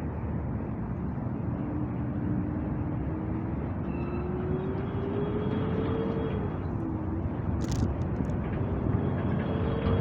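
Steady rumble of city traffic, with one engine's tone rising slowly in pitch for several seconds, dropping, then rising again near the end. A short high-pitched sound comes about three-quarters of the way through.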